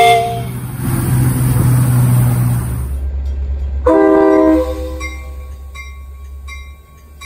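A live-steam miniature locomotive's chime whistle cuts off just after the start, leaving steam hissing over a low hum until an abrupt break. A Metra commuter train's horn then gives one short blast about four seconds in, followed by a bell dinging about three times a second.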